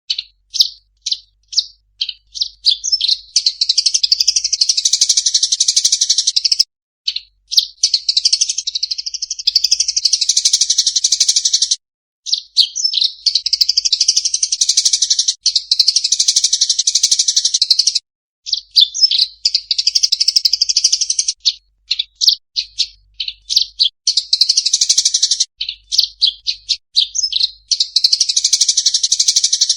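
A songbird singing loud, high-pitched song in phrases of several seconds, each starting as separate quick notes that run together into a dense, fast twittering stream, with short breaks between phrases. A clear recording of competition-bird song of the kind used as a training 'masteran'.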